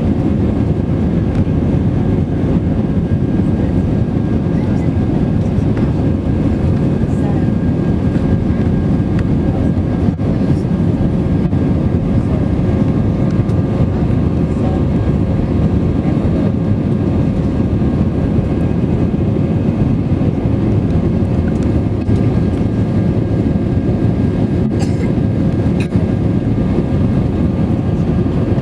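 Steady cabin noise inside an Airbus A320-200 in flight: a constant deep rumble of engine and airflow with a few faint steady tones above it.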